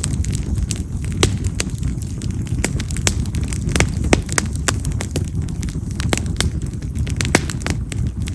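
Wild mountain cherry (yamazakura) firewood burning in an open campfire, with a steady low rush of flame and frequent sharp crackles and pops as the wood snaps.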